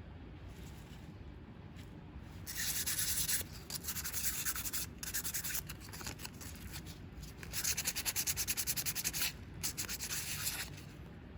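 Sandpaper rubbed back and forth by hand in quick strokes, in bursts with short pauses between them, smoothing a part of the grinder.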